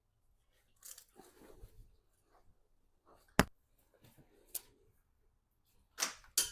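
Handling noise from parts being worked on: rustling and scraping, a single sharp knock about three and a half seconds in, and a few more clicks and knocks near the end.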